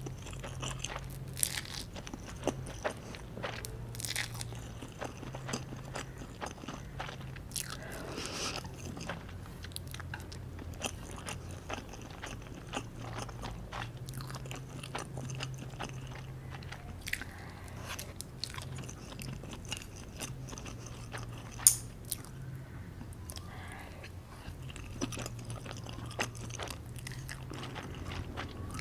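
Close-miked eating: a person biting and chewing, with many short crunchy, wet clicks and one sharp louder click a little past the middle.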